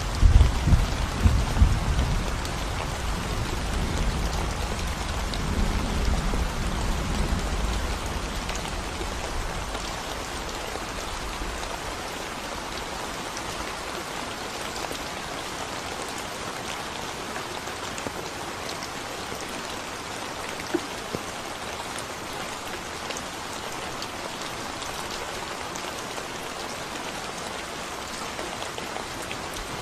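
Steady rain falling on a concrete road, a dense patter of drops. A low rumble of thunder dies away over the first ten seconds or so, and another rumble starts right at the end.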